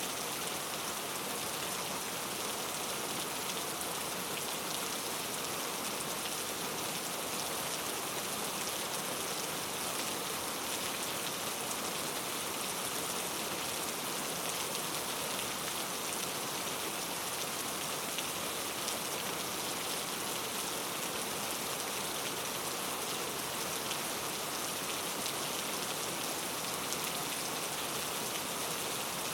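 Steady rain falling on foliage, an even hiss of many fine drops with no change in strength.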